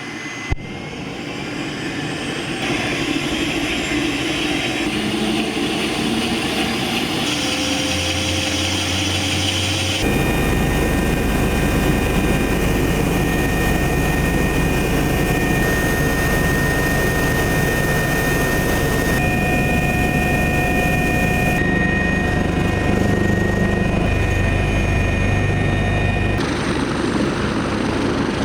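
Helicopter engine and rotor noise: a steady drone with high whining tones, its sound changing abruptly every few seconds.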